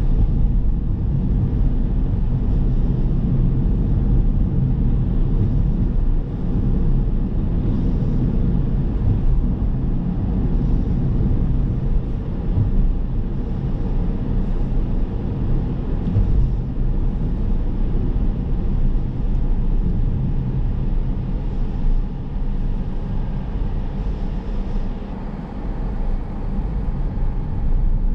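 Car driving on city streets: a steady low rumble of tyres on the road, engine and wind noise, with small dips and swells in level but no sudden events.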